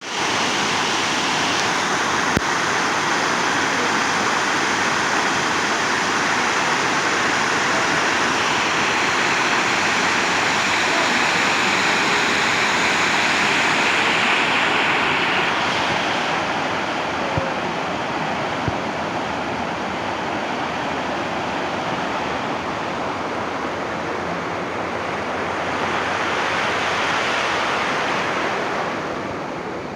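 Rushing waterfall: a steady, dense rush of falling water, easing a little about halfway through and swelling again near the end.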